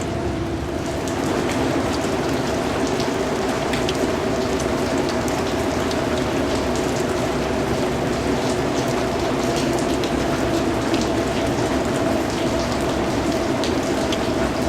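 Steady rain falling, with many separate drops ticking sharply against a surface, over a continuous low hum.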